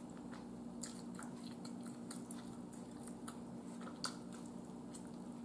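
Close eating sounds of a person biting and chewing meat off a barbecued rib: scattered small wet clicks and smacks, the sharpest about four seconds in, over a faint steady hum.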